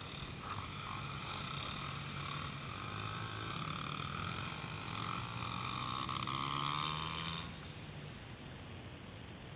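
Small pit bike engine running, growing louder as the bike approaches and passes close about seven seconds in, then falling away.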